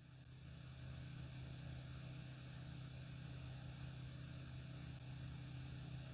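Faint, steady low drone of the light aircraft's engine running before takeoff, heard faintly through the cockpit intercom recording. It comes in about half a second in.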